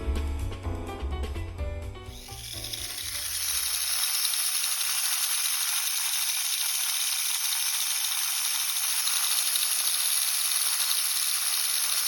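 Background music fades out over the first two seconds. A Mini 4WD's small electric motor and gear drive then runs steadily with a high-pitched hissing whir.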